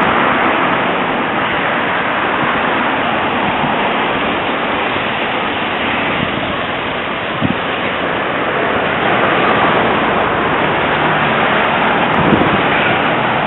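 Steady hiss of passing street traffic, car tyres running on a wet road of melting snow.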